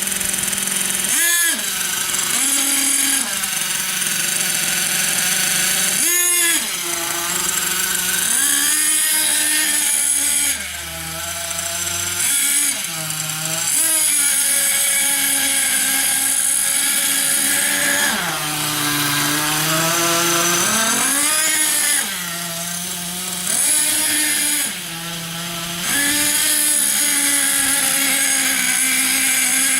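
Small nitro glow-fuel engine of a Kyosho MTA4 radio-controlled monster truck running at high, buzzy revs, the pitch climbing and falling again and again as the throttle is worked, with short drops back toward idle every few seconds.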